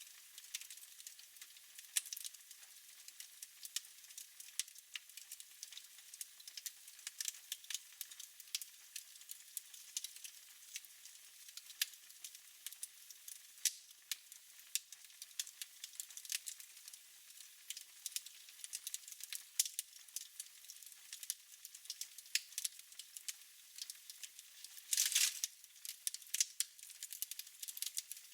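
Fireplace fire crackling: a continuous scatter of sharp, high crackles and pops. Near the end there is one louder hiss lasting about half a second.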